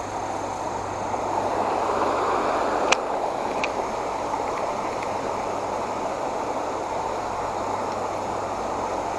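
Creek water running high and rushing in a steady wash, with a couple of sharp clicks about three seconds in.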